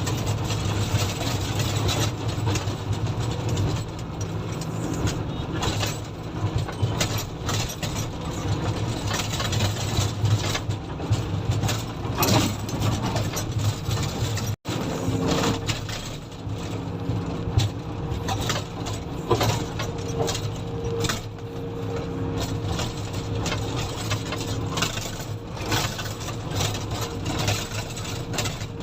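Komatsu motor grader's diesel engine running steadily while grading, with frequent short knocks and rattles from the machine. The sound cuts out for an instant about halfway through.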